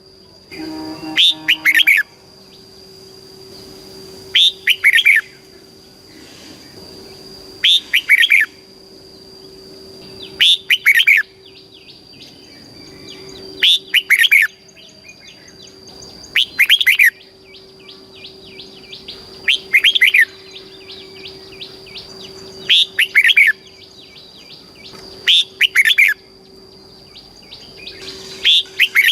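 Red-whiskered bulbul singing short, loud phrases of quick sweeping notes, repeated about every three seconds, about ten times.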